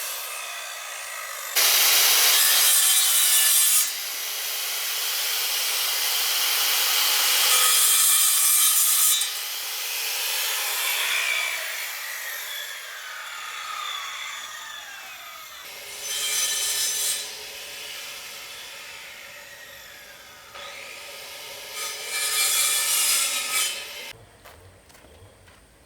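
Saw cutting through wood, in long rasping stretches that stop and start again several times, then break off about two seconds before the end.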